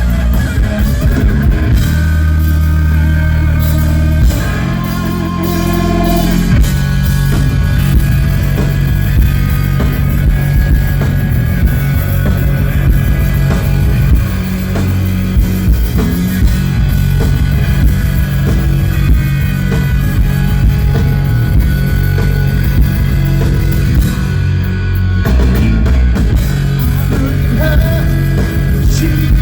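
Live hard rock band playing loud, with electric guitar, bass and drum kit.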